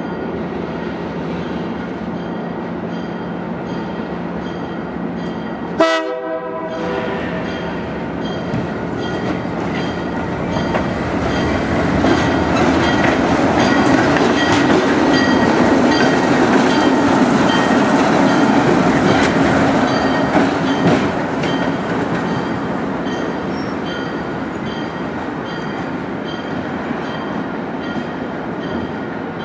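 Railroad train rolling past, growing louder and then fading over about ten seconds, with wheels clicking over the rail joints. A brief sharp horn-like blast sounds about six seconds in, over a steady locomotive hum.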